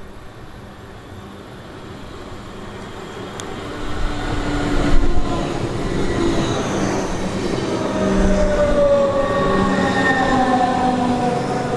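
Train running past the track, growing louder about four seconds in, with several whining tones that slowly fall in pitch.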